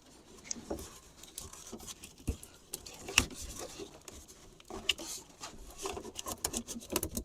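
Light rustling, scratching and irregular small clicks and knocks of a vehicle wiring harness being pulled and worked back through the engine bay by hand.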